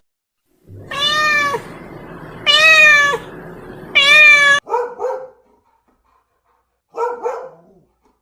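Domestic cat meowing: three loud, drawn-out meows about a second and a half apart, then two shorter, quieter calls.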